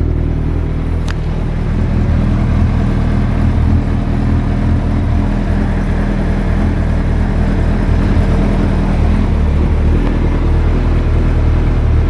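Suzuki GSX1300R Hayabusa inline-four engine idling steadily through an aftermarket Wyvern muffler.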